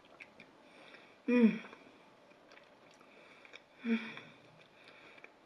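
A person eating a mouthful close to the microphone, with small wet mouth clicks from chewing. Two short voiced hums of enjoyment, one about a second in and another near four seconds.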